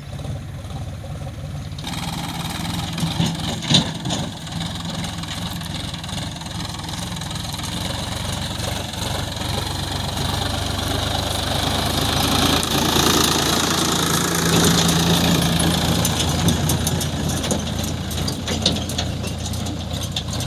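Heavy diesel machinery engine running steadily, getting louder and busier about two seconds in and again around twelve seconds, with a sharp knock near four seconds.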